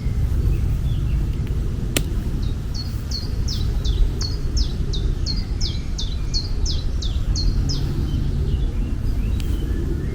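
A bird singing a run of about a dozen quick, high, falling notes, each repeated at an even pace, over a steady low rumble of outdoor ambience. A single sharp click comes just before the song starts.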